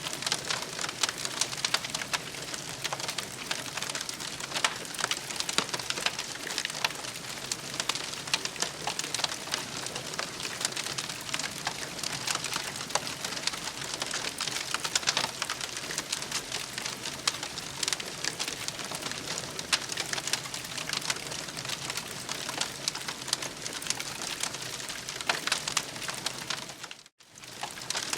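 Campfire crackling steadily, dense with small sharp snaps and pops. The sound cuts out for a moment near the end.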